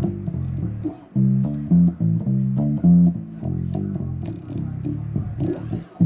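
Bass guitar riff played note by note, with a short break about a second in.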